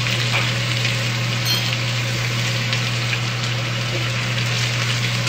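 Chicken sizzling in a hot skillet, a steady crackling fry, with a steady low hum underneath.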